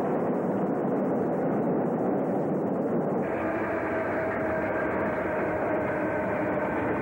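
A freight train passing, a steady dense rumble of wheels and locomotives. About three seconds in the sound changes abruptly, and several steady whining tones join the rumble.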